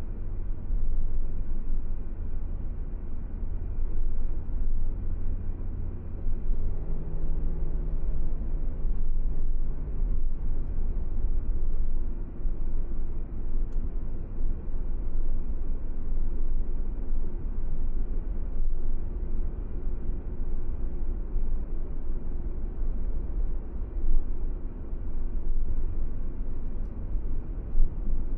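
Car driving along a desert road: a steady low rumble of road and engine noise. A faint engine hum comes in for a few seconds about seven seconds in.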